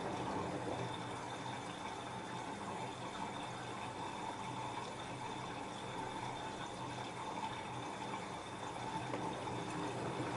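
LG F10A8HDS5 front-loading washing machine with water running steadily and splashing inside the drum during its cotton wash cycle.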